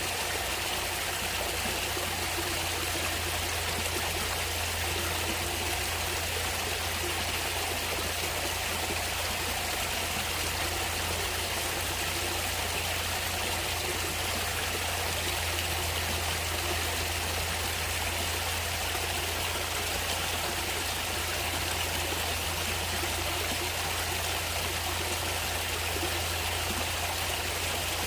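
Natural stream water running steadily, a continuous even flow with trickling.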